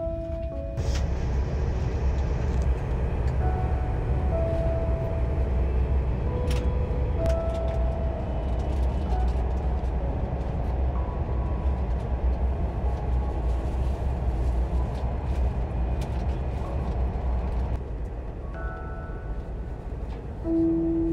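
Inside a moving passenger train carriage: a steady low rumble and rushing running noise, with a few faint clicks. Faint chime-like background music is mixed in and grows clearer near the end.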